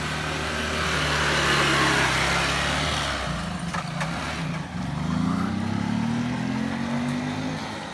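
A motor vehicle's engine running close by: a steady hum with a rush of passing noise in the first few seconds, then the engine pitch rises from about five seconds in as it speeds up.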